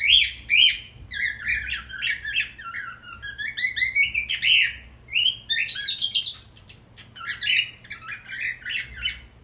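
A young male karawan, a caged pet bird, singing a fast, jumbled run of chirps, squawks and whistled notes in phrases, with a short pause about two-thirds of the way through. This is the courtship song of a male coming into breeding condition.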